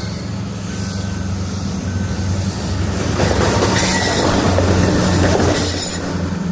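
Diesel locomotive engine running steadily with a coal train on the rails; about three seconds in, louder wheel-on-rail noise with high-pitched wheel squeal joins for a few seconds.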